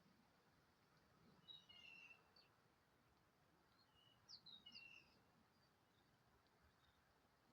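Faint, high chirps from small birds: a short twittering phrase about a second and a half in and another about four seconds in, over a quiet outdoor hiss.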